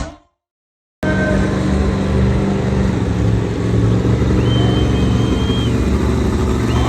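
Monster truck engine running with a loud, steady low drone, cutting in abruptly after about a second of silence.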